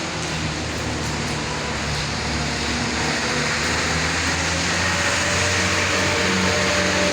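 Steady hiss of rain with a motor vehicle's engine running underneath, its low hum growing a little louder.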